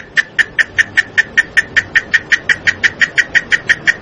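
A totorrón insect calling: a steady train of sharp, high-pitched chirps at about five a second.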